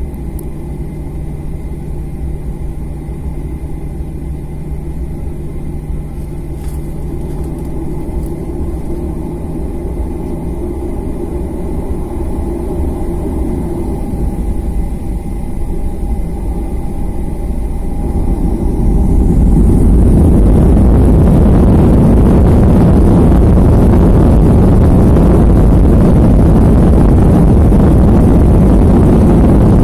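Jet airliner engines running steadily with a thin whine, then about eighteen seconds in spooling up to takeoff thrust, the sound swelling into a loud, steady rush as the takeoff roll begins.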